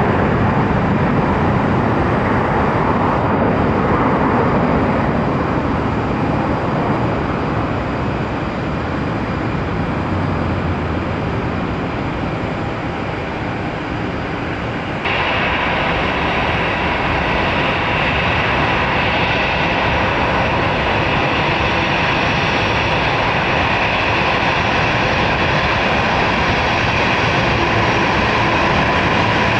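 Jet airliner engines running loud and steady. About halfway through, the sound changes abruptly to a brighter hiss with a thin steady whine.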